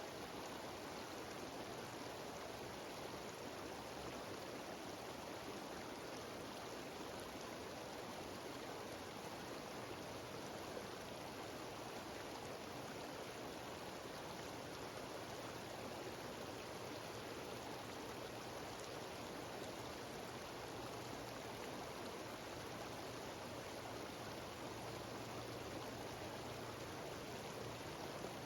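Mountain waterfall and cascading stream: a steady rush of falling water with no change.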